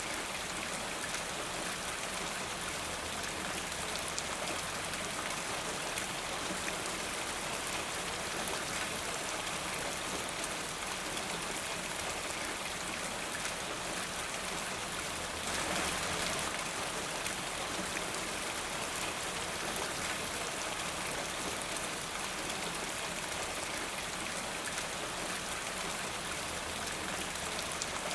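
Steady rain falling, with many fine drops pattering on a surface; it swells a little about halfway through.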